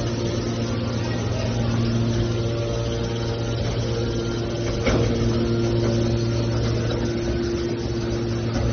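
Hydraulic scrap car baler's power unit running steadily with a low pitched drone, with one sharp knock about five seconds in.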